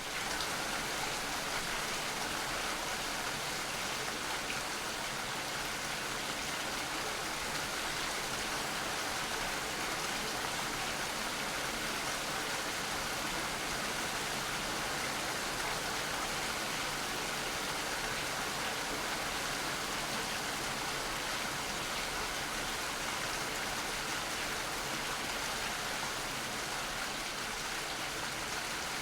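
Rain falling steadily: an even, unbroken hiss with no separate drops or other sounds standing out.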